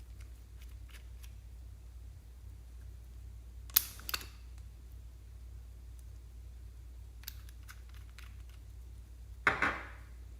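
Slime being handled and pressed: scattered faint clicks, a sharp click cluster about four seconds in, and a louder, fuller squelch-like pop near the end, over a low steady hum.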